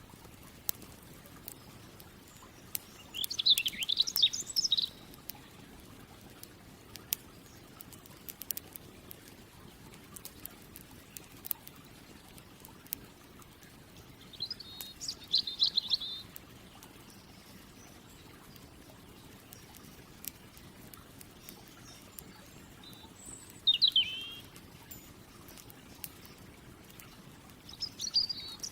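A songbird singing four short trilling phrases, spread through the stretch, over the faint scattered crackle and snap of a campfire.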